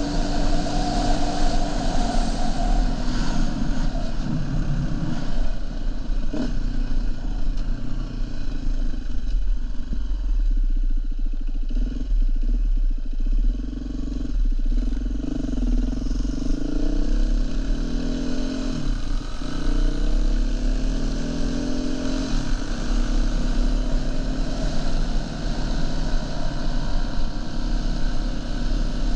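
Dirt bike engine running under way, its pitch rising and falling repeatedly as the throttle is worked and it shifts through the gears, over a heavy steady low rumble.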